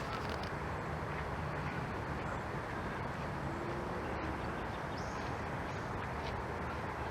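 Steady outdoor background noise with a few faint, short bird calls near the end.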